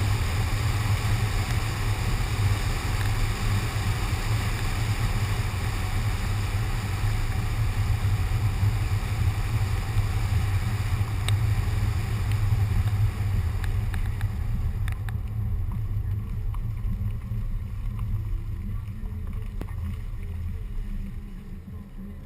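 Wind and road noise on a GoPro suction-cupped to a moving car's window: a steady low rumble under a hiss. The hiss dies down from about two-thirds of the way through as the car slows, and a few light ticks come through.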